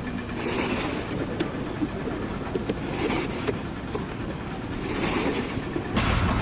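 Continuous mechanical rumble and clatter with scattered short knocks, growing louder near the end.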